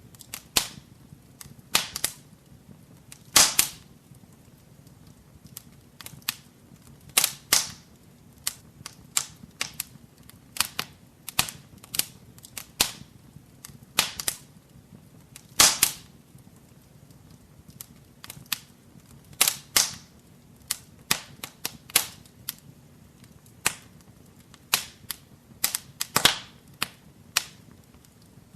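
Wood fire burning in a fireplace: irregular sharp crackles and pops, a few a second with some louder snaps, over a faint low hiss.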